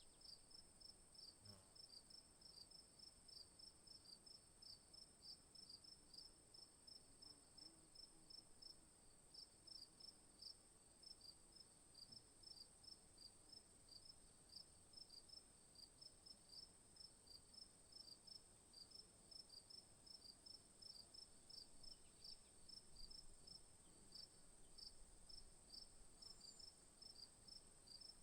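Faint insect chorus: a steady high-pitched drone with a rapid, evenly repeated chirp over it, a few chirps a second, pausing briefly about nine seconds in.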